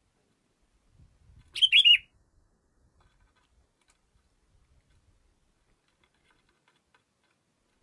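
Sooty-headed bulbul (kutilang) giving one short, loud phrase of a few quick notes about a second and a half in.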